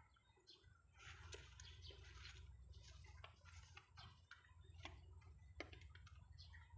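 Near silence: faint scattered clicks and short rustles over a low steady rumble.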